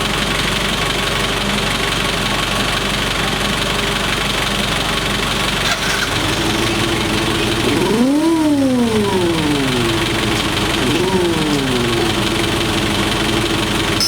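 Kawasaki Fury 125's single-cylinder four-stroke engine idling steadily with its big-bike sound modification. The throttle is blipped twice: a bigger rev about eight seconds in and a smaller one about three seconds later, each rising quickly and settling back to idle.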